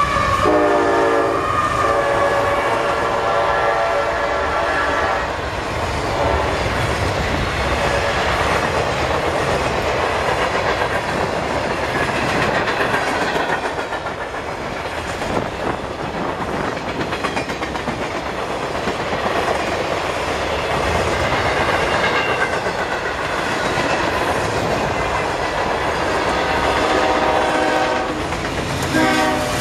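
Diesel freight locomotive horn blowing as the locomotives pass, dropping in pitch about a second in, then the rumble and clickety-clack of freight cars rolling by at speed. Near the end another horn sounds again.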